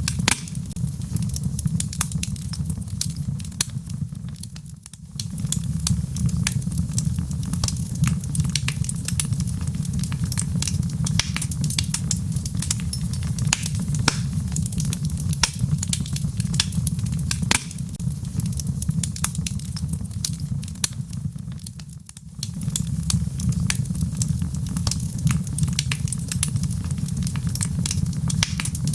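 Logs burning in a fireplace, crackling with many sharp pops over a low, steady rumble of the flames. The sound briefly drops twice, about five seconds in and again near the middle.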